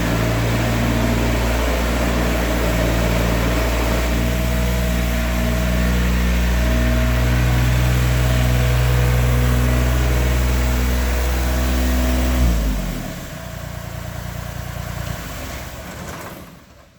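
John Deere 955's 3-cylinder Yanmar diesel running at a steady speed, then winding down and stopping about twelve and a half seconds in. A quieter rumble remains after it and fades out at the end.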